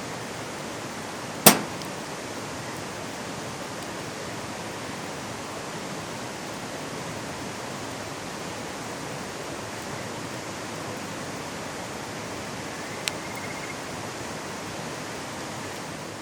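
Mountain stream rushing steadily over rocks, an even wash of water. A sharp, loud click about a second and a half in, and a fainter tick with a brief high tone near the end.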